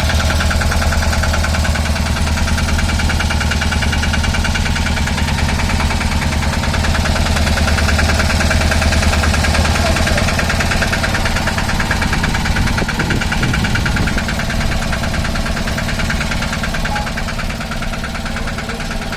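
An engine idling steadily, with a fast, even beat. Its deep low hum eases about halfway through.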